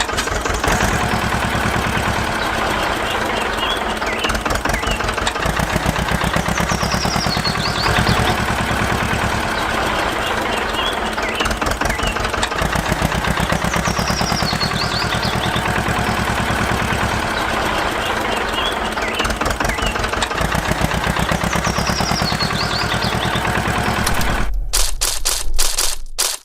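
Homemade mini tractor's motor running with a steady, rapid mechanical rattle, which cuts off suddenly near the end.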